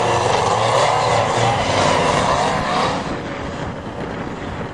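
Dune buggy's 650 Yamaha motorcycle engine running under load, its pitch wavering up and down, loud for about three seconds and then easing off.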